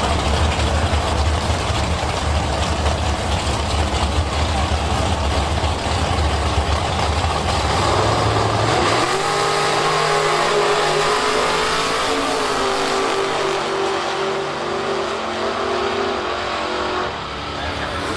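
A drag race car's engine running loud, a heavy low rumble at first. About halfway through it turns to a clear pitched note that shifts up and down in steps as the revs change, then drops back near the end.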